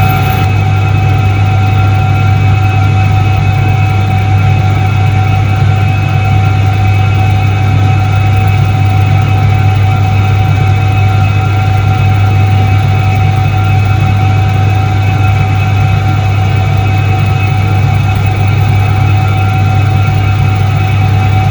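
1978 Soviet Iset-3 washing machine running: its electric motor gives a loud, unchanging deep hum with a steady higher whine over it.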